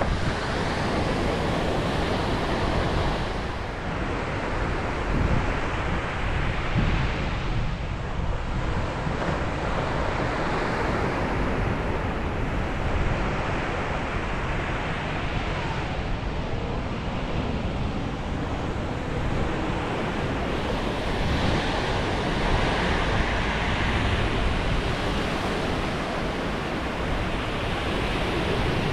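Ocean waves breaking and washing on a beach, the surf swelling and easing every few seconds, with wind on the microphone.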